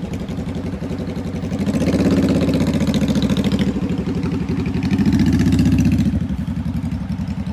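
Engines of a slow line of passing cars and trucks running close by, a steady pulsing engine note that swells louder twice as vehicles go past.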